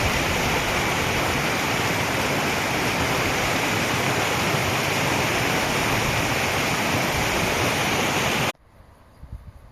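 Steady rushing of running water that cuts off suddenly about eight and a half seconds in, leaving only faint low rumbling.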